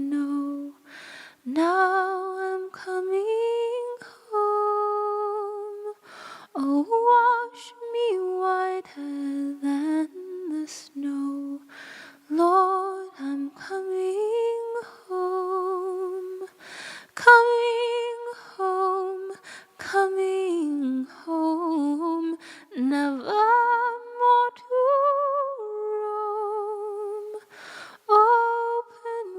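A woman's solo voice singing a slow hymn melody a cappella, in long held phrases with a wavering vibrato and short pauses for breath between them.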